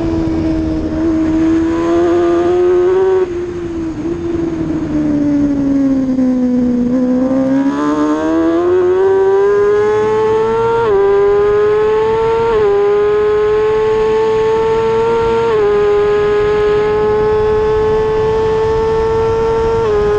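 Race motorcycle engine at high revs. Its pitch falls for a few seconds as it slows, then it accelerates hard, with four quick upshifts, each a brief dip in pitch.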